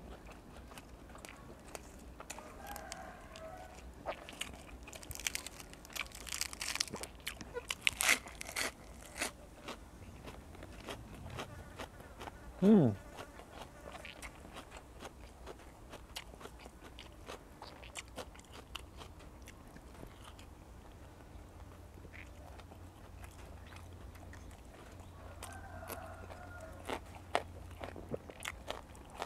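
Close-up chewing and crunching of crisp fresh vegetables such as lettuce, with wet mouth clicks and smacks. The crunching is densest for a few seconds after the start. About halfway through comes one short, loud sound that slides down in pitch.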